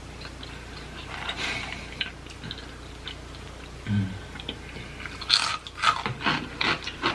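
A person chewing and biting into food close to the microphone, with a run of quick crunching bites near the end.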